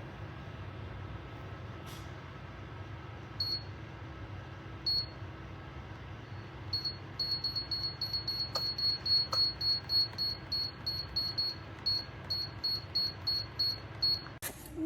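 Electric space heater's controls beeping as buttons are pressed: two single short high beeps, then a quick run of beeps about three a second, over a steady low hum. A knock near the end.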